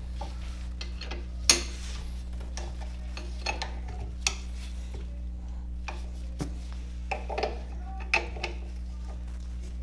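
Metal hand tools and brake parts clinking, knocking and scraping during brake work: irregular sharp clicks and short rubs, the loudest about a second and a half in, over a steady low hum.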